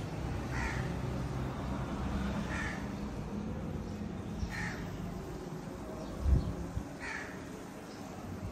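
A bird calling, one short call about every two seconds, four times, over a steady low rumble. A single low thump about six seconds in is the loudest sound.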